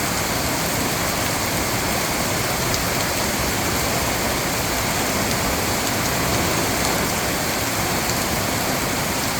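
Heavy rain falling steadily, a dense, even downpour hitting surfaces.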